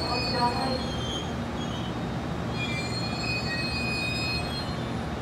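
Kamome limited-express electric train rolling slowly along the station track, a steady rumble with thin, high wheel squeal from the rails about halfway through.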